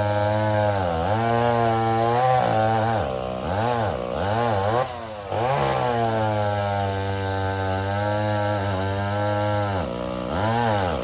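Vintage two-stroke chainsaw engine running at high speed, its pitch dropping and picking back up several times, with a longer slow sag in the middle.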